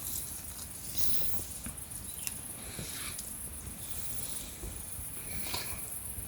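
Steady high-pitched chirring of insects, likely crickets, with scattered soft rustles and clicks of handling close by.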